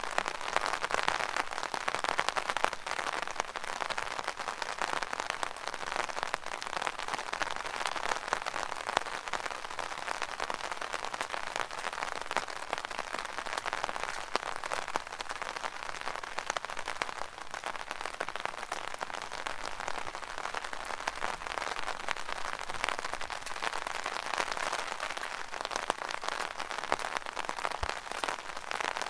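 Rain falling on an umbrella canopy: a steady, dense patter of many small drops hitting the fabric.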